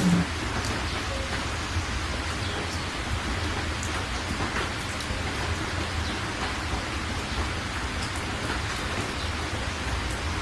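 Heavy rain pouring steadily: an even hiss with a low rumble underneath.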